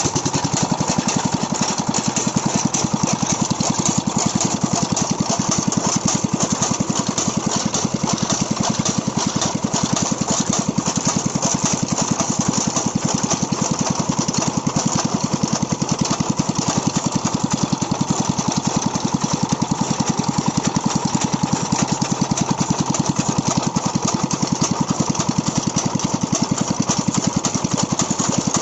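Small single-cylinder stationary diesel engine of about 8 horsepower running steadily with a fast, even exhaust beat, driving a chaff cutter machine.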